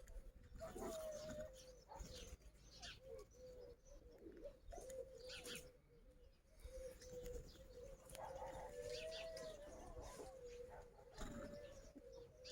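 Soft, low bird calls that waver and run on almost without a break, with a few faint chirps and small knocks between them.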